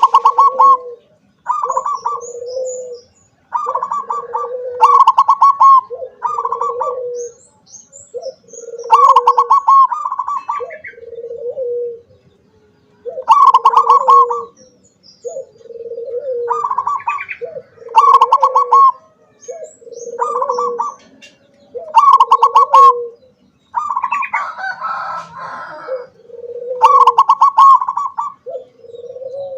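Zebra dove (perkutut) singing: phrase after phrase of rapid, pulsed coos alternating between a lower and a higher note, with short pauses between phrases. Faint high chirps of other small birds sound behind it.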